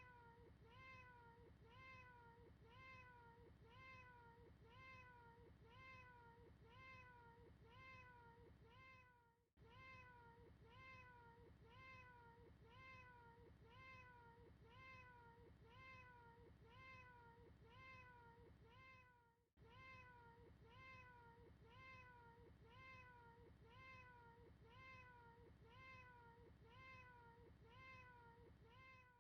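Quiet cat meows repeated rapidly, about two a second, each a short call rising and falling in pitch. The same short recording is looped, with a brief gap about every ten seconds where the loop restarts.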